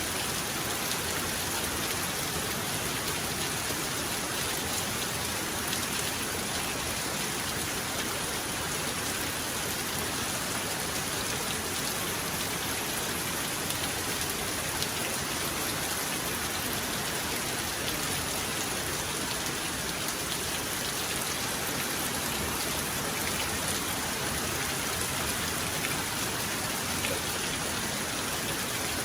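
Heavy rain falling steadily, with scattered sharper drop ticks and no thunder.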